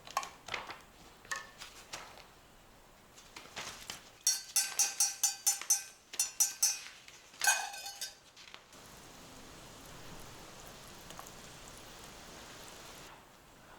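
A metal utensil clinking against metal cookware: scattered clicks, then a quick run of about ten ringing strikes over two and a half seconds and one louder strike, followed by a steady hiss lasting about four seconds.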